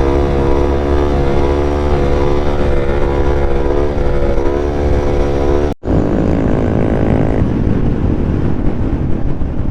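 Motorcycle engine running at a steady pitch. It breaks off suddenly about two-thirds of the way through, and then the engine goes on under rougher noise.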